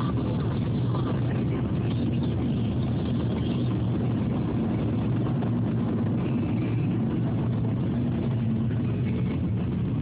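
Steady road and engine noise of a moving car, heard from inside the cabin: an even low rumble with no change in pace.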